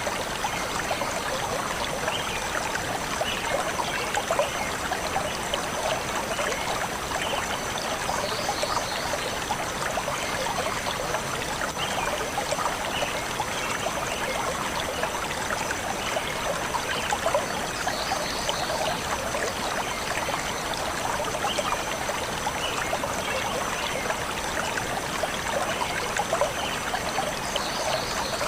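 Stream flowing steadily with a babbling, trickling sound, and short bird chirps every few seconds.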